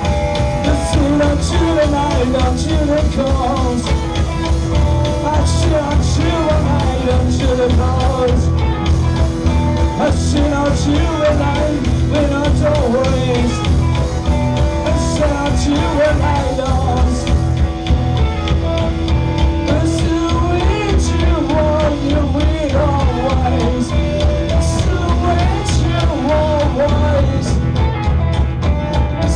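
Live rock band jamming continuously: a steady drum-kit beat under heavy bass, with electric guitar lines that bend and waver above it.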